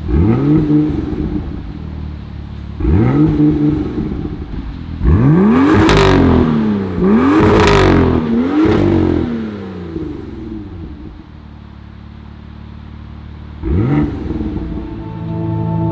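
BMW M2's 3.0-litre inline-six exhaust as the engine is blipped: short revs at the start and about three seconds in, then a longer run of repeated revs, a settle back to idle, and one last sharp blip near the end.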